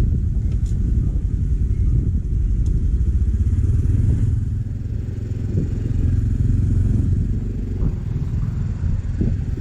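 Motorcycle running while being ridden: a steady low engine and road rumble that rises and falls slightly.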